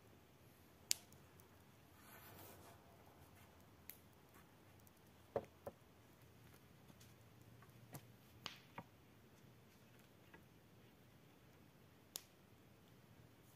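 Near silence broken by scattered sharp clicks and light knocks, about eight in all, the loudest about a second in.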